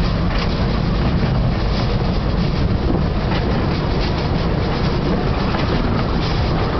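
Train carriage running along the track at speed, heard from on board: a steady rumble and rushing noise with faint clicks from the rails.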